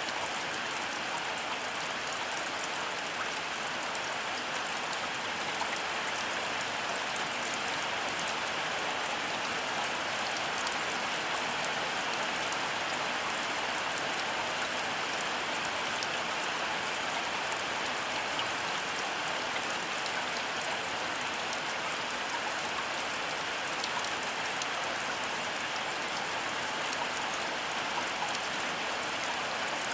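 Heavy rain falling steadily: an even, unbroken hiss of drops, with no thunder.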